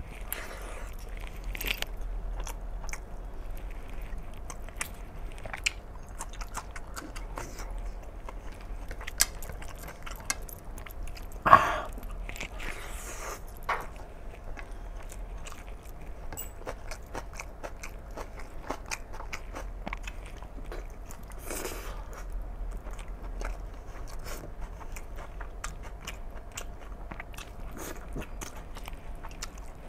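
Close-miked chewing and lip-smacking of a person eating mutton curry and rice by hand, with many short wet clicks from the mouth and one louder sound about a third of the way in.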